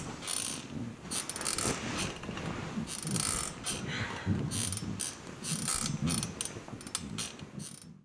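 Foley squeaking-bed effect made with an old bicycle saddle: its springs worked by hand give repeated, uneven squeaks and creaks, about two a second, like the springs of an old bed.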